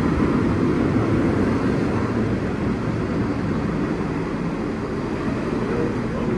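Steady running noise heard from inside a moving New York City R160 subway car, easing slightly toward the end.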